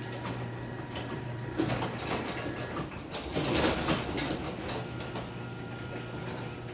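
Chamberlain garage door opener running, a steady motor hum as the door travels on its track, with a louder rattling burst about three and a half seconds in.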